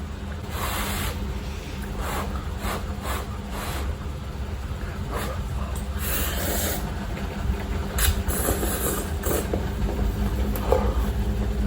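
A person eating instant fried noodles from a cup: bursts of slurping and chewing, with a few small clicks, over a steady low rumble.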